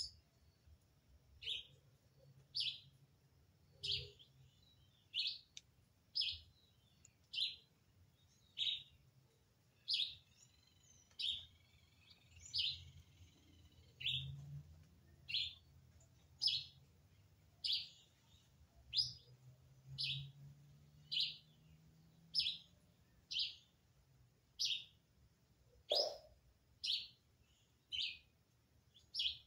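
A bird repeating one short, high chirp over and over, about once a second, at a steady, unvarying pace.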